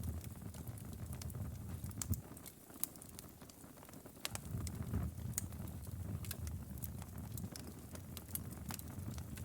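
Outdoor wood fire crackling: frequent irregular sharp pops and snaps over a low rumble of the burning fire, which eases briefly a few seconds in.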